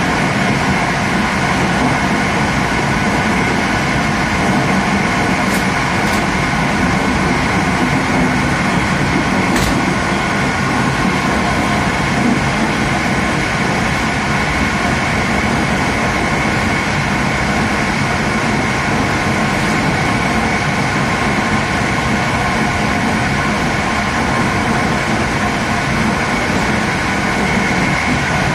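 Passenger train running steadily at speed, heard from its last carriage: a constant rolling rumble of wheels on rails with a faint steady whine over it. There is no regular wheel-beat, and a few faint high clicks come about six and ten seconds in.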